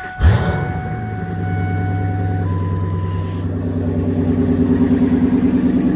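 2000 Ford F350's 6.8-litre V10 gas engine cold-started after sitting overnight in near-freezing weather. It catches almost at once, about a quarter second in, with a short rising flare, then settles into a steady fast cold idle. A steady electronic chime tone sounds during the first few seconds.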